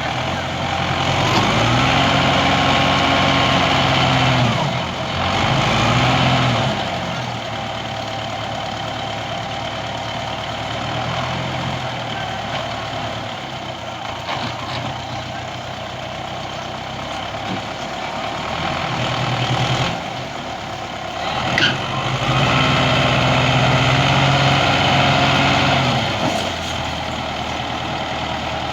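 Diesel tractor engine running, revved up three times: for about three seconds near the start, briefly just after, and for about four seconds near the end. Each time it drops back to a lower, steady running. There is a sharp knock just before the last rev.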